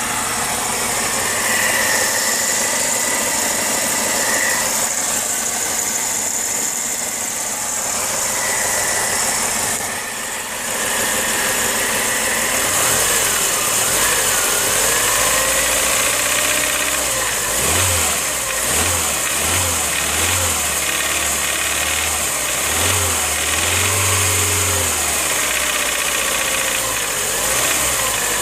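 Car engine running, with a knock whose cause the owner does not know.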